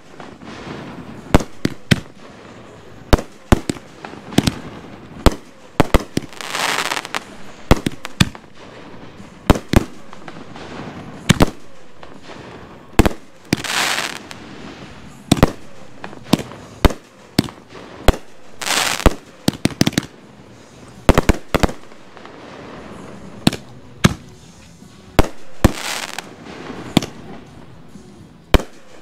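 Consumer aerial fireworks going off: an irregular run of sharp bangs, several close together at times, with a hiss lasting about a second four times, roughly every five to six seconds.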